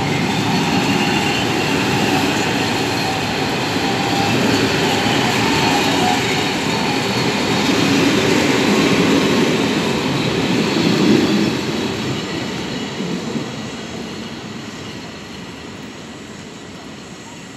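Passenger coaches of a departing train rolling past on the rails, wheels rumbling steadily. It grows louder about halfway through, then fades steadily over the last several seconds as the train moves away.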